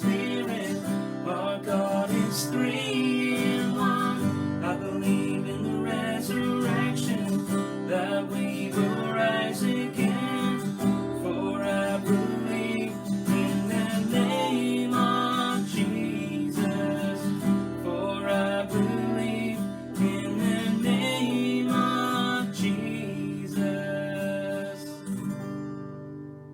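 Worship song led by strummed acoustic guitar, fading out near the end.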